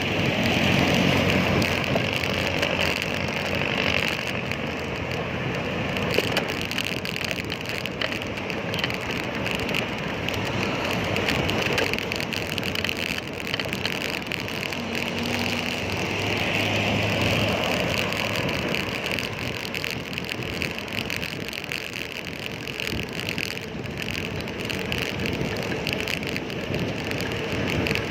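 Steady road noise while riding a bicycle, with motor vehicle engines humming past near the start and again about halfway through.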